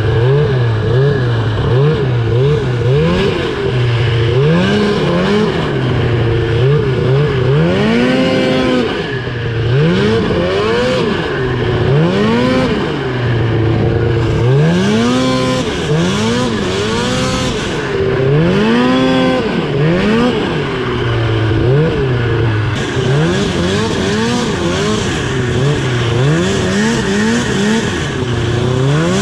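2000 Ski-Doo Summit 700 snowmobile's two-stroke engine revving hard over and over, its pitch climbing steeply and falling back every second or two as the throttle is worked while riding.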